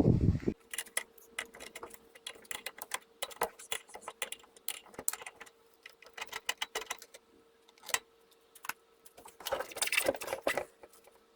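Irregular metallic clicks and clinks of hand tools and metal parts being handled while the spare wheel is taken off, with a faint steady hum underneath.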